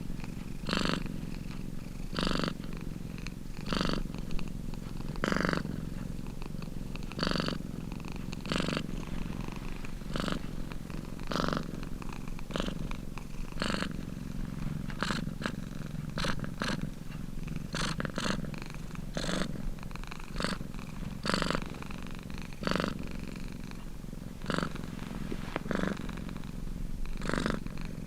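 Domestic cat purring steadily. The purr swells louder about every second and a half with each breath.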